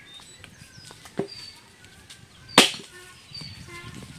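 Firewood being chopped with a blade: a light strike about a second in, then a much louder, sharp chop.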